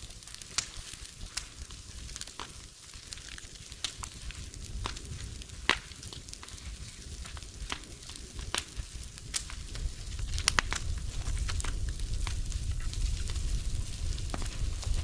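Bonfire of scrap roof timber crackling, with irregular sharp pops over a steady hiss. A low rumble grows louder about ten seconds in.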